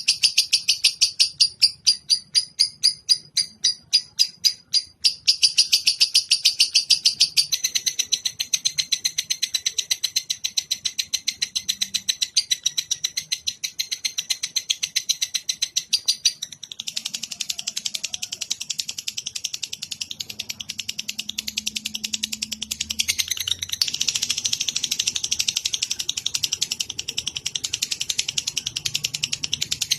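Songbird birdsong-training recording: rapid runs of short high chirps, several a second, with the rhythm and tone changing every few seconds.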